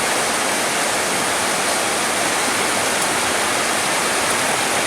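Steady rain, an even hiss with no distinct drops standing out.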